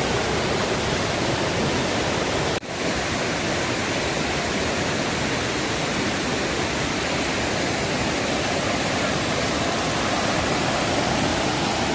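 Rushing water of a forest waterfall and its fast-flowing stream, a steady even rush that cuts out for an instant about two and a half seconds in.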